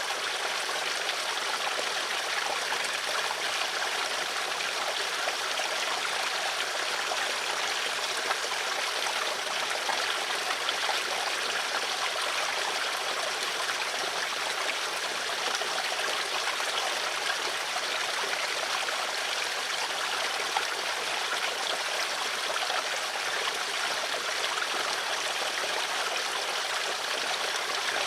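Water flowing steadily in a stream, a constant trickling and babbling rush with no pauses.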